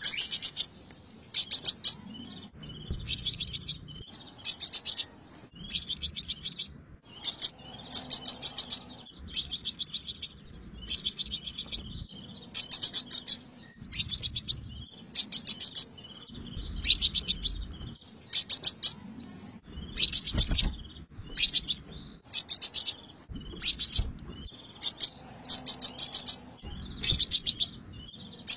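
Sunbird song: quick, high-pitched twittering phrases of several rapid notes each, repeated about once a second, as used to lure sunbirds into traps.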